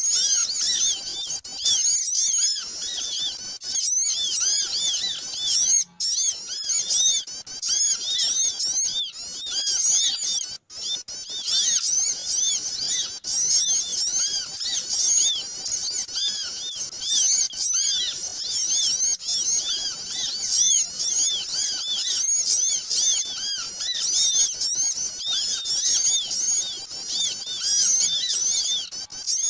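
A noisy flock of small birds twittering without pause: many short, high, overlapping chirps. This is a bird-lure (pikat) recording meant to draw small birds in.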